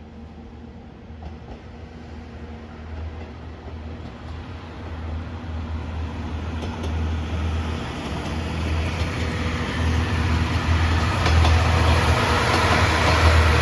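A train approaching on the rails, its low rumble and wheel noise growing steadily louder throughout.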